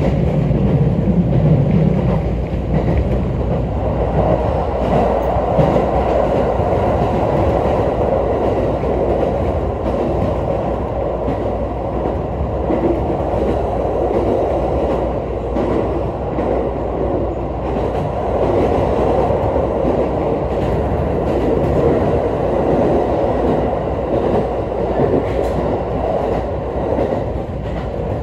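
Steady running noise of an ET127-series electric multiple unit at speed, heard from inside the passenger car: a continuous rumble of wheels on rail with faint clicks from the track.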